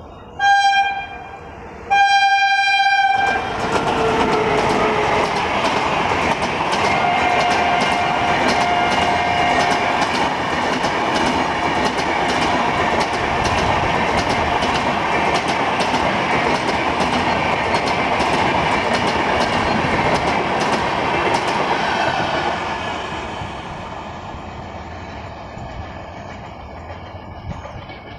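An Indian Railways express train running through a station behind an electric locomotive. It opens with two blasts of the locomotive's horn, the second longer, then the coaches rattle past with a rapid clickety-clack over the rail joints. The sound fades away over the last several seconds as the train recedes.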